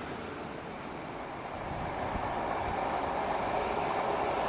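Passenger train approaching on the rails, its rumble growing steadily louder, with a high squeal starting near the end.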